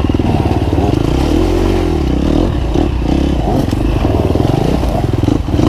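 Off-road dirt bike engine working hard on a trail, revving up and down as the throttle is rolled on and off, with clattering from the bike over rough ground.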